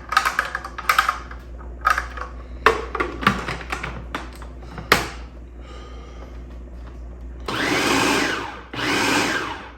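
Food processor pulsed twice near the end, each run about a second long, chopping raw chicken with egg and salt. Before it come a series of light clicks and knocks.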